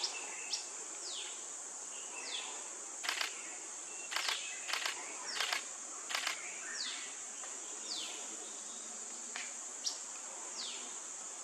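Steady high-pitched drone of insects, with short high calls dropping in pitch every second or two and a few sharp clicks around the middle.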